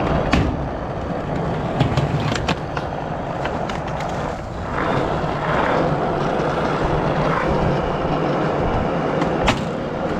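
Skateboard wheels rolling steadily, with sharp clacks of the board now and then; the loudest clack comes near the end.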